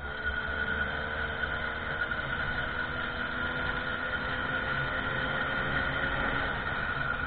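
Small 50cc motorcycle engine running steadily while riding, with a steady high whine held at one pitch over a low rumble.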